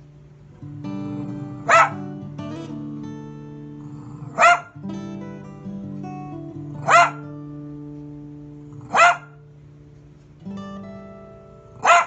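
A dog barking: five single short barks, spaced about two to three seconds apart, over background acoustic guitar music.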